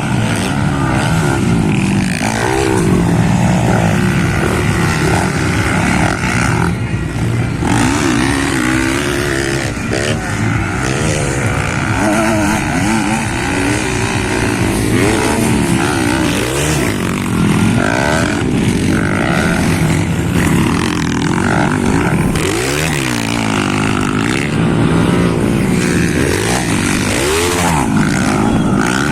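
Several motocross bikes racing, their engines revving up and down with overlapping rising and falling engine notes.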